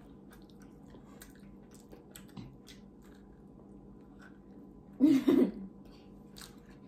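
Children chewing French macarons, with soft, faint mouth clicks and smacks. About five seconds in, a child gives a short, loud vocal outburst without words.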